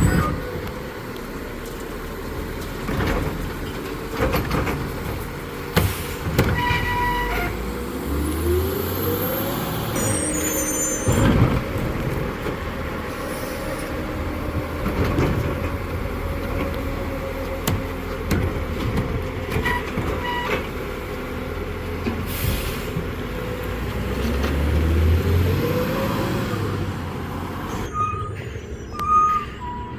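CCC side-loading garbage truck with a New Way Sidewinder arm: the diesel engine runs steadily and revs up twice as the automated arm cycles to lift and dump carts. Knocks and bangs of carts and trash come with it, along with short electronic beeps.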